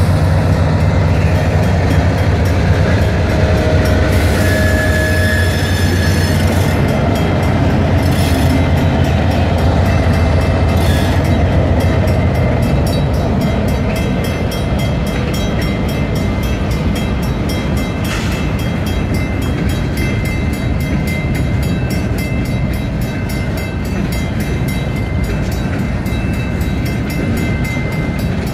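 CN freight train passing: the locomotives' diesel engines drone heavily for the first dozen seconds, then the freight cars roll by with a steady rumble of wheels on rail and a faint high wheel squeal.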